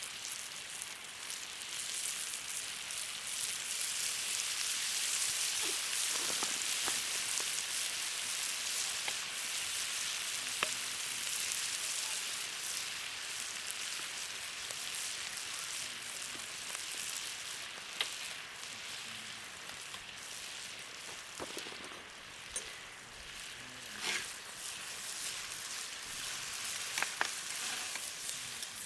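Food sizzling in a hot pan, a steady frying hiss that builds over the first few seconds, with a few sharp clicks and scrapes later on.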